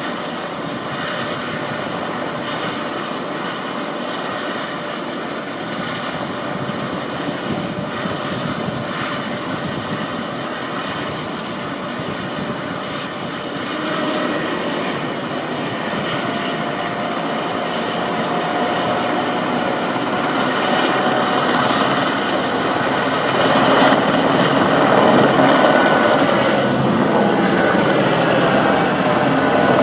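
Helicopter turbine and rotor running steadily, then growing louder from about halfway through with a rising whine as it takes off, loudest a few seconds before the end.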